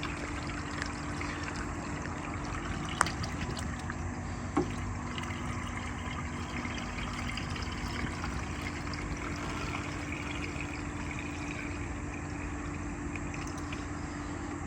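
Coolant being poured into a car's cooling system, a steady trickle, with two sharp clicks a few seconds in.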